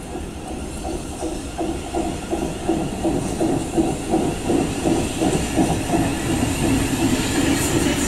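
Thameslink Class 700 electric train running into the platform, with a rhythmic clatter of wheels over the track that grows louder and quicker as it draws alongside.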